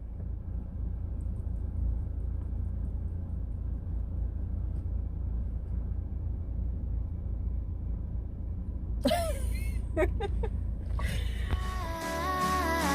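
Low steady outdoor rumble, with a short vocal sound about nine seconds in; outro music starts near the end.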